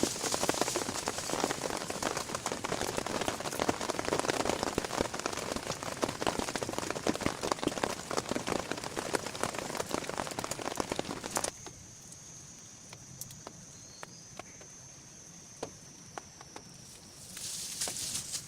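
Heavy rain pattering on a surface, a dense hiss full of small drop impacts, which cuts off abruptly about eleven seconds in. What follows is much quieter: scattered drips over a faint steady high-pitched tone, with a short louder burst of rain noise near the end.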